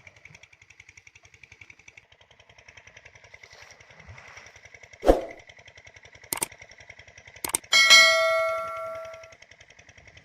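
A small engine chugging in a rapid, steady rhythm, with a few sharp knocks and a loud metal clang about two-thirds of the way in that rings on for over a second before fading.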